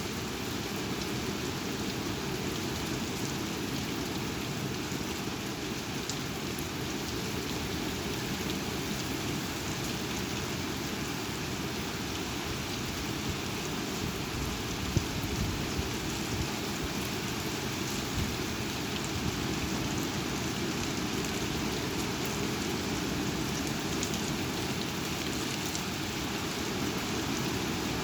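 Steady rush of thunderstorm rain and strong wind, with one brief sharp knock about halfway through.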